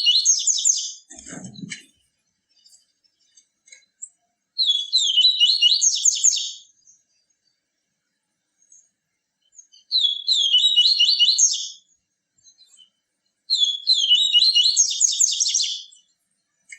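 Papa-capim (Sporophila seedeater) singing: four bursts of quick, high, twittering notes, each about two seconds long, with pauses of a few seconds between them.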